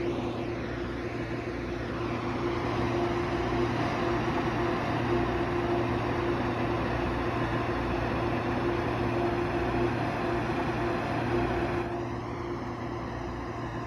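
Inside an Airport Express train carriage under way: the steady running noise of the train, a low rumble with a constant hum, dropping slightly in level about twelve seconds in.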